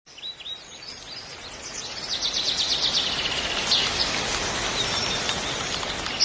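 Songbirds chirping, with a rapid trill about two seconds in, over a steady hiss of outdoor ambience that grows louder partway through.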